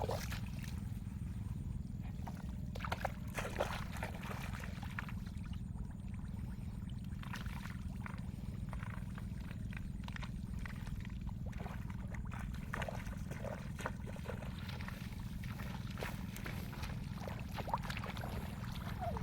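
Small irregular splashes and sloshes of shallow water in a flooded rice field over a steady low rumble.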